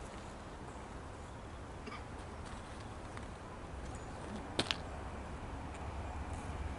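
Distant approaching train: a faint low rumble that grows a little louder, with two sharp clicks in quick succession about four and a half seconds in.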